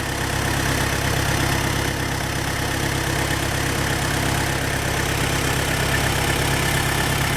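Off-road 4x4's engine running at steady revs, a little louder over the first half second and then even.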